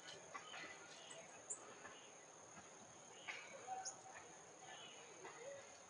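Faint outdoor ambience: a steady high-pitched insect drone, with scattered small clicks and rustles and a couple of brief faint chirps.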